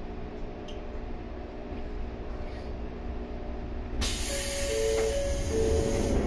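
Electric commuter train running on the line, a steady low rumble with a hum of held tones from the running gear. About four seconds in a loud hiss comes in suddenly, with a few held tones sounding over it.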